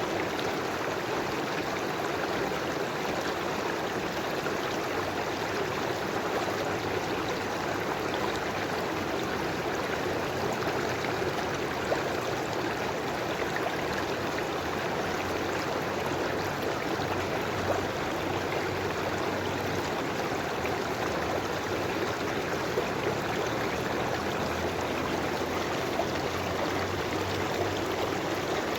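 River water flowing steadily over stones, an even rushing with light trickling and gurgling.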